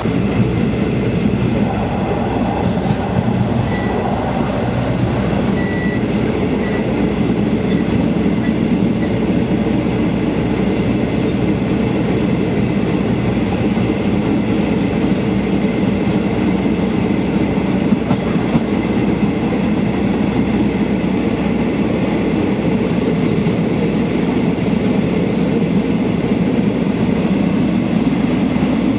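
Passenger train running at a steady speed: a continuous, even noise of wheels on rails, strongest in the low range.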